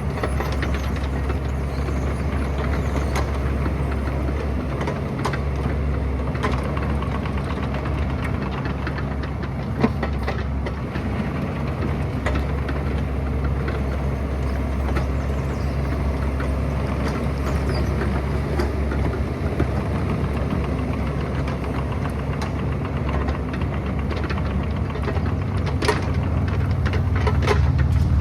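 Excavator's diesel engine running steadily, with a few sharp knocks of metal work. It grows a little louder near the end.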